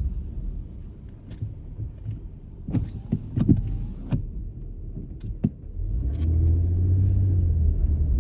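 Car cabin while driving: low engine and road rumble with a few scattered sharp clicks and knocks. About six seconds in, the rumble grows louder and steadier as the car picks up speed.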